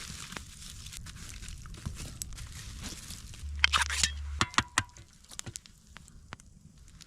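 Crinkling and rustling handling noises with scattered clicks and knocks. A louder crinkling burst comes about three and a half seconds in, then quieter clicks.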